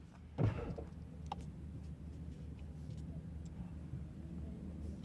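A short soft thump about half a second in, then a few faint clicks over a low steady hum, as the interior of a parked car is handled.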